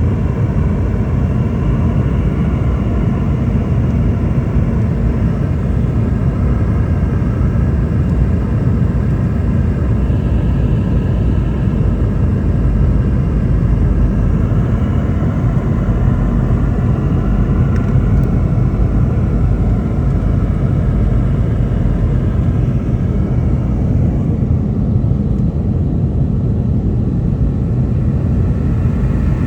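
Steady cabin noise inside a Boeing 717-200 in flight: a low rumble from its rear-mounted Rolls-Royce BR715 turbofans and the airflow, with a faint steady engine hum over it. The higher part of the hum eases off slightly near the end.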